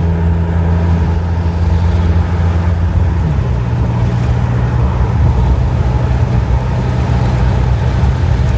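Car engine and road noise heard from inside a moving car: a steady low drone whose engine note steps down in pitch about three seconds in.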